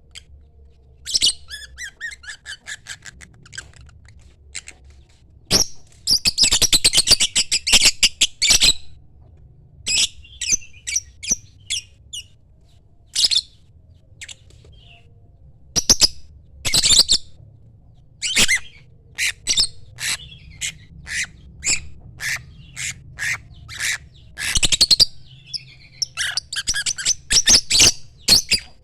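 Lovebird calling: a series of sharp, high chirps and squawks, with longer rapid runs of chattering calls about six seconds in and again near the end.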